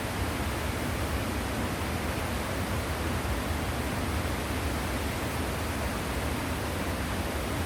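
Waterfall pouring steadily: an even, unbroken rush of falling water with a deep low rumble under it.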